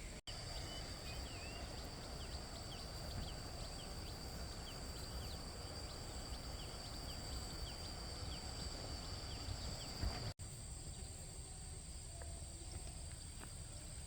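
Ducklings peeping: many short, high, rising chirps over a steady high insect whine and low rumble. The sound drops out briefly twice.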